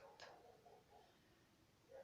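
Near silence: room tone, with one faint click just after the start.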